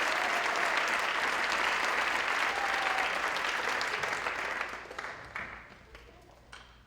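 Concert audience applauding, the clapping thinning out and fading away about two-thirds of the way through, with a few last scattered claps.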